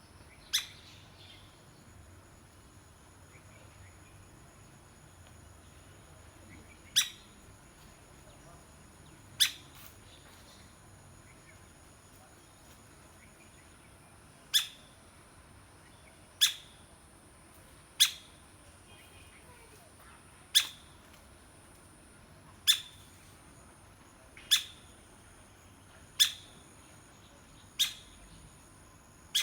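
A woodpecker giving about a dozen sharp, single short call notes, a few seconds apart at first and then about every two seconds from midway on.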